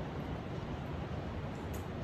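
Heavy rain falling outside: a steady, even hiss.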